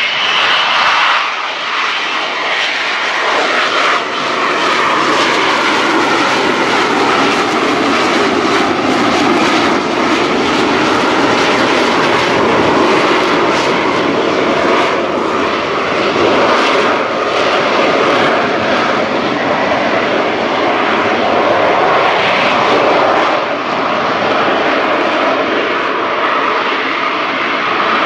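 Lockheed Martin F-35B Lightning II in the hover, its Pratt & Whitney F135 engine and shaft-driven lift fan running at high thrust. It makes a loud, steady jet roar whose pitch slowly wavers.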